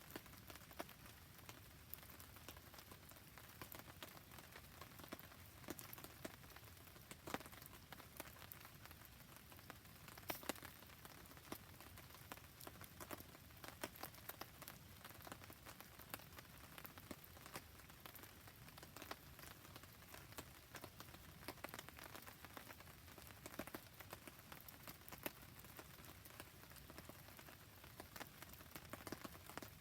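Rain falling steadily while a wood campfire crackles: a faint, even hiss dotted with many small, irregular clicks and pops.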